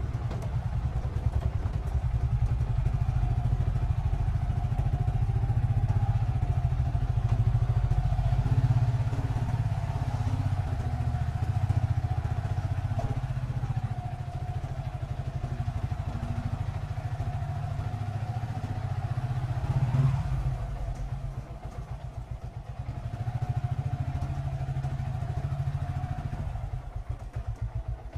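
Small motorcycle engine running at low speed under the rider, with its low engine pulse and a steady whine, easing off briefly about three-quarters of the way through.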